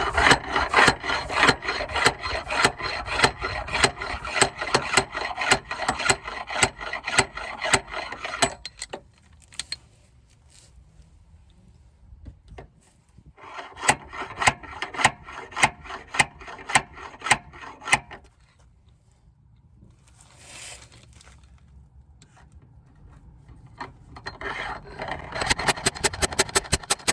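Dent puller being worked against the car body, making three spells of rapid rasping ratchet clicks, several a second, with pauses between; the last spell is quicker.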